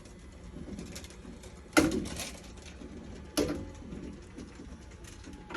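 Car-roof wheelchair pod's electric hoist running as it lifts the folded wheelchair up, with two sharp clunks from the mechanism, one just under two seconds in and one about a second and a half later.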